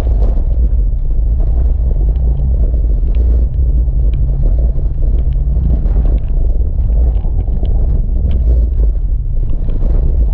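Jeep WJ Grand Cherokee's engine and drivetrain rumbling steadily under load as it crawls up a rocky ledge, with scattered small ticks of stones.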